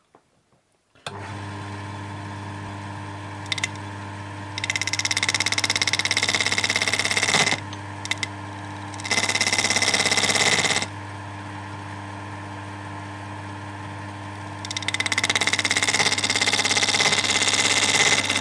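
Wood lathe switched on about a second in and running with a steady hum. Three times a skew chisel cuts into the spinning segmented blank, a loud hissing cut of a few seconds each, starting the grooves where rings will be parted off.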